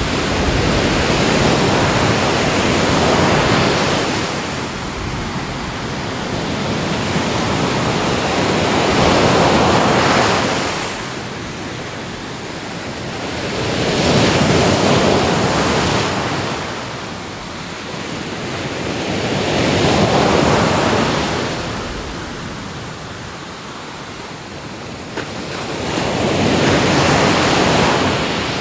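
Ocean waves breaking and washing in, five slow surges, each swelling and fading over about six seconds.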